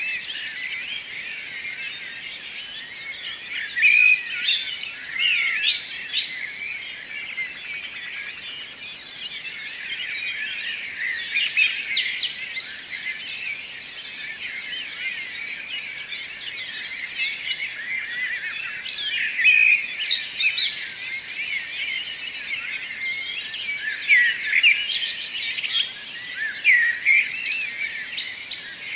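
Morning chorus of many birds singing and calling at once: a dense, unbroken mix of high chirps and trills, with louder individual calls standing out every few seconds.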